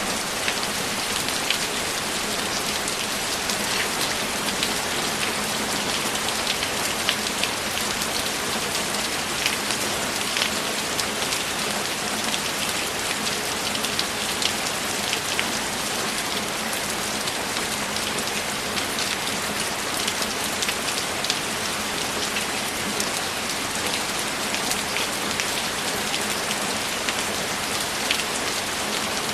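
Steady rain falling, with many separate drops ticking through an even hiss.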